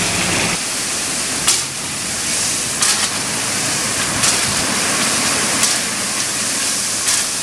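Loud steady hissing noise with a brief surge about every second and a half.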